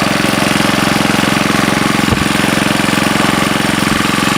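Sportsman GEN2000 portable generator's small four-stroke engine running steadily with a hair dryer plugged in as its load, firing in an even rapid beat with a hiss above it. Two brief low knocks come about two and four seconds in.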